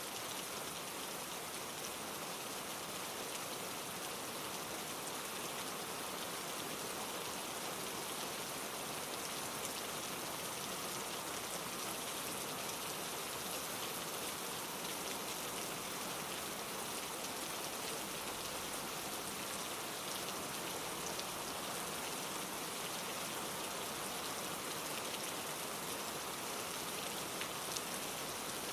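Steady rain, an even hiss of many drops, with a few sharper single drop ticks; one slightly louder drop near the end.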